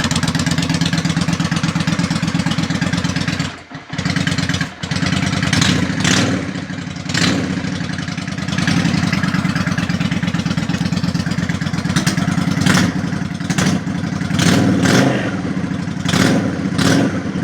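Honda Shadow 400 ACE's V-twin engine running through a straight-through exhaust. It idles steadily and is revved in short throttle blips several times in the second half.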